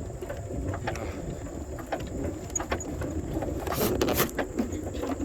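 Bicycle rolling along a trail: steady tyre and wind rumble on the microphone, with scattered light clicks and rattles and a couple of louder whooshes a little past the middle.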